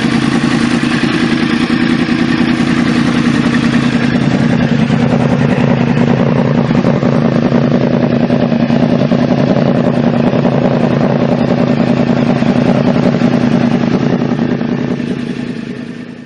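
Sport motorcycle engine running loudly at steady high revs through its exhaust, fading away in the last couple of seconds.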